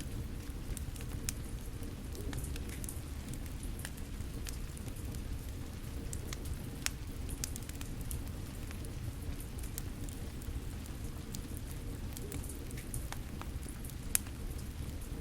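Rain falling steadily with a low rushing hiss, while a fire crackles with scattered sharp pops; two louder pops come about seven seconds in and near the end.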